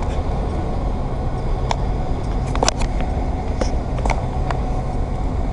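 Departing train running along the platform: a steady low rumble with a few sharp clicks scattered through the middle.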